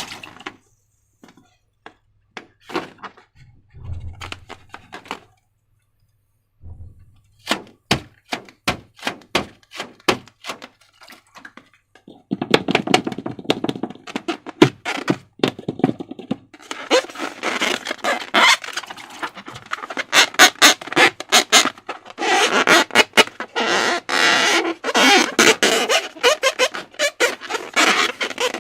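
Slime being handled by hand, with sticky clicking and crackling. The clicks are sparse at first with a few soft thuds, then turn dense and continuous from about halfway through.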